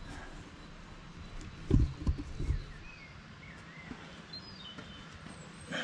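A few dull knocks about two seconds in, with a small bird chirping faintly in the background.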